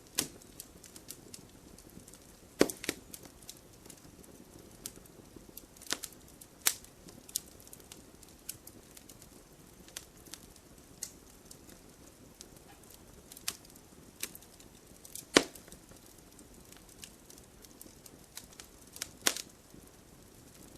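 Firewood burning in a fire, crackling with sharp irregular pops over a soft low hiss. A few pops stand out louder, about three seconds in, about three-quarters of the way through and near the end.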